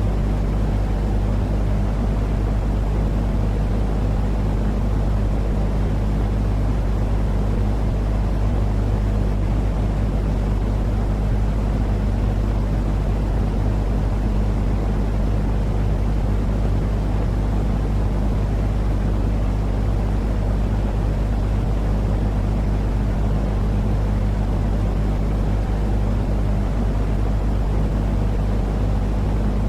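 Steady, low-pitched droning noise with a deep hum running under it: a soothing sleep-noise track of the kind played to calm a colicky baby.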